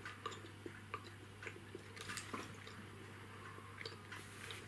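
Faint chewing and small mouth clicks as a durian candy is eaten, over a steady low hum.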